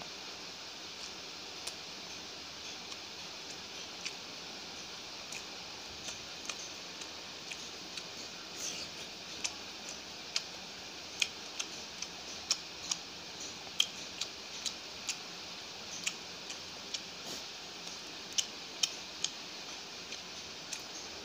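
Close-miked chewing of chicken curry and porota, with short wet mouth clicks and smacks that come more often in the second half, over a steady hiss.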